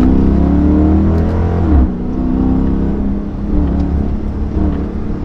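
Straight-piped 5.7-litre Hemi V8 of a 2022 Chrysler 300 S under acceleration, its exhaust drone rising in pitch, dropping abruptly about two seconds in, then pulling again with a heavy low rumble.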